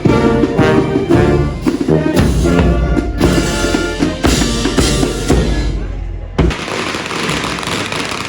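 A band of brass and drums playing, cut off abruptly about six seconds in and replaced by the noise of a crowd.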